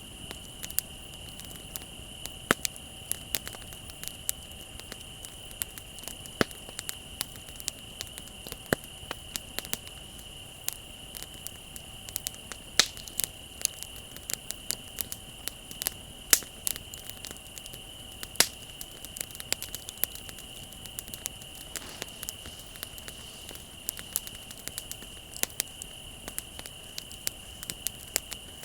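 Bonfire crackling, with frequent irregular sharp snaps and pops, over a steady high-pitched trill of crickets.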